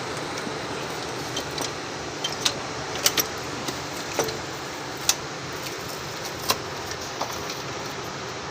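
Small metal parts and tools clinking and clicking as a diesel injection pump is taken apart, about ten separate sharp clinks over a steady background hum.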